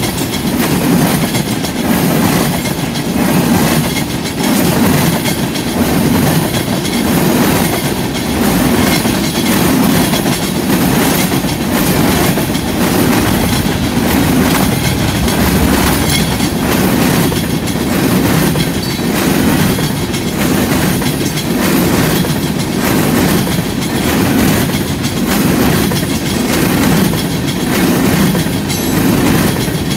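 Loaded freight cars of a CN train (tank cars, covered hoppers, gondolas) rolling past close by: a loud, steady rumble of steel wheels on rail with a regular, repeating clack as the wheel sets cross the rail joints.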